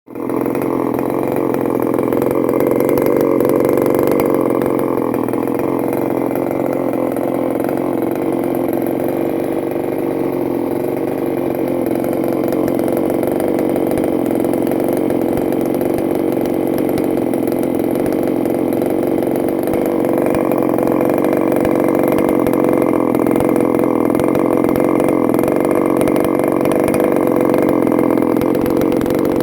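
A newly built, ported engine on its first start-up, catching right at the start and then running steadily at a fast idle while it heat-cycles. It has a slight rise in pitch about two-thirds of the way through.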